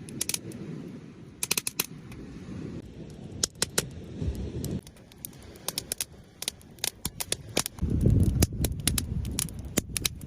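A run of sharp, irregular clicks and knocks over a low rumble, with the rumble louder about eight seconds in.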